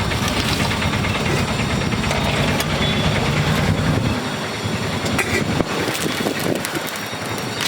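A motor vehicle's engine running close by, a steady low rumble that stops abruptly about four seconds in, followed by light clicks and clatter.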